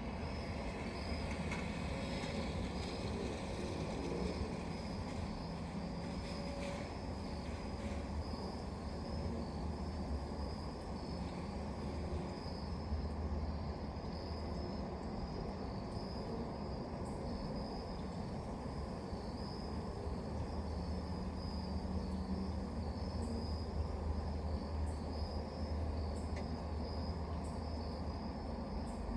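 Crickets chirping in a steady, high, pulsing trill over a continuous low rumble.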